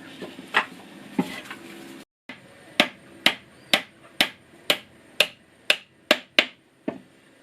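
Hammer blows at a steady pace of about two a second, roughly ten sharp knocks in a row, coming after a few scattered knocks and a brief cut.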